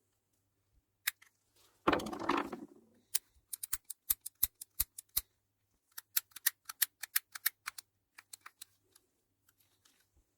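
Runs of sharp little mechanical clicks, several a second, in two main bursts with fainter clicks after, following a brief rattling clatter about two seconds in.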